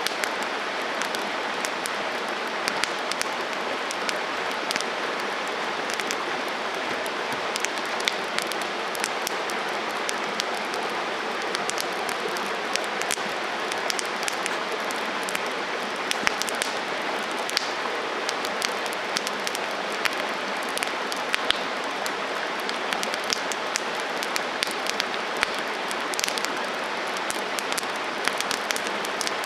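Wood campfire burning: a steady hiss from the flames with frequent sharp crackles and pops from the burning wood.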